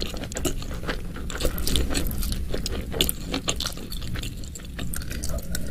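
Close-miked eating sounds: a person chewing with many short wet mouth clicks and smacks.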